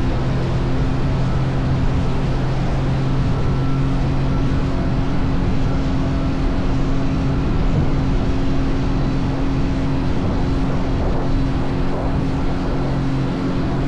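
Jet ski engine running steadily: an even hum over a rush of noise, its pitch holding level throughout.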